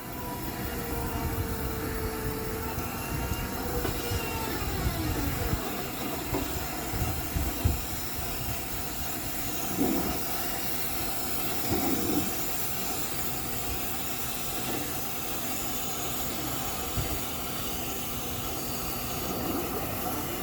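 Steady rushing of air from a running machine, with a sliding whine in the first few seconds and a few knocks and thuds in the middle.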